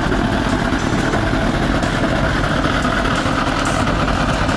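Kamaz truck's diesel engine running loud and steady, working hard.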